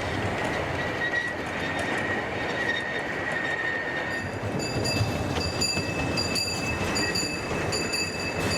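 Miniature 15-inch gauge train running on the track with steady rail noise and wheel squeal. A single high squeal holds for a few seconds, then from about halfway a higher, pulsing squeal repeats.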